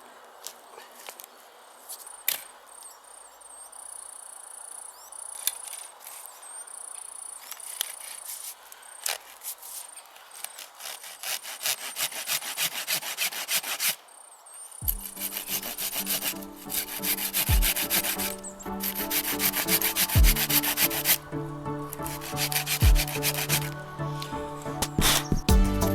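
Hand-held blade rasping into wood in repeated strokes, cutting notches into wooden supports for a campfire grill rack. The strokes grow quicker and louder toward the middle, and background music comes in about halfway through.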